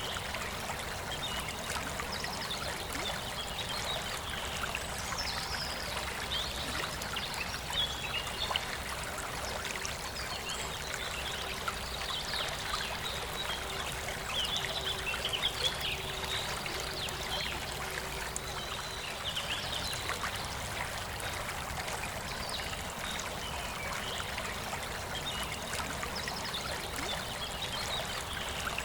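Forest river flowing steadily, with birds chirping on and off above the sound of the water.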